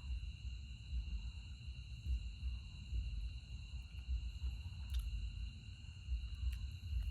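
Night insects droning steadily in two unbroken high tones, over a low uneven rumble on the microphone, with a couple of faint clicks.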